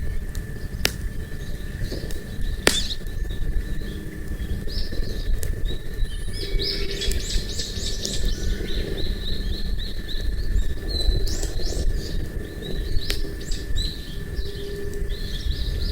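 Small birds chirping in quick repeated phrases, busiest in the middle and again near the end, over a steady low rumble, with a few sharp pops from a crackling campfire.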